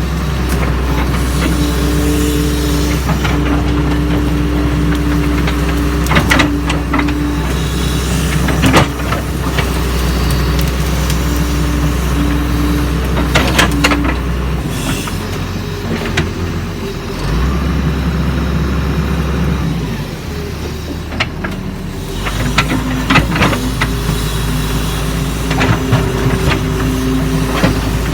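Doosan DX140 excavator working: its diesel engine runs steadily with a held hydraulic tone, the engine note dips and changes for several seconds about halfway through, and sharp metal clanks come now and then.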